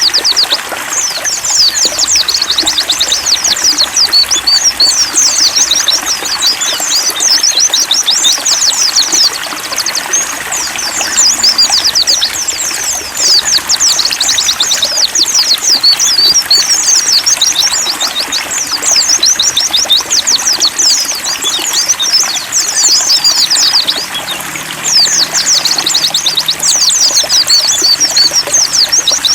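White-eyes (pleci) singing in fast, high twittering runs that go on almost without a break, pausing only briefly now and then, over a steady trickle of running water.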